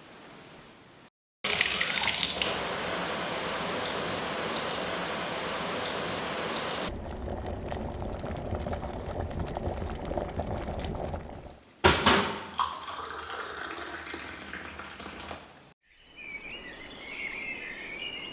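Rushing, splashing water in several abruptly cut segments, loudest and most even in the first few seconds. Faint warbling chirps come in near the end.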